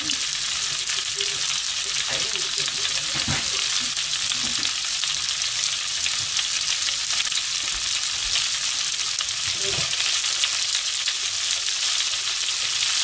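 Leftover yakisoba noodles and fried rice sizzling steadily in a hot frying pan as they are reheated.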